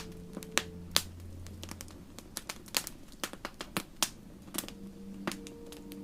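Campfire wood crackling, with irregular sharp pops and snaps several times a second. Soft held music tones fade out about two seconds in, and new low tones come in near the end.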